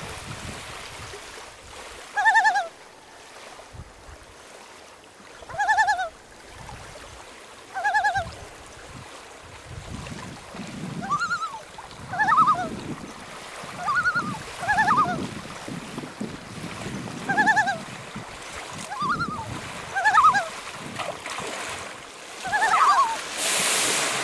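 A bird calling repeatedly: about a dozen short honking calls, a second or two apart, over a low wash of lake water, with a burst of splashing near the end.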